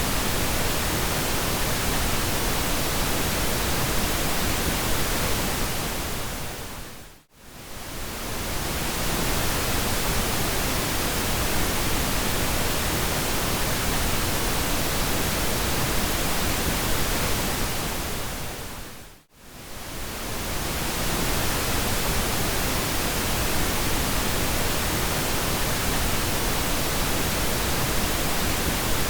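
Steady pink noise, an even hiss weighted toward the low end. It fades almost to nothing and straight back twice, about 7 seconds in and again about 19 seconds in.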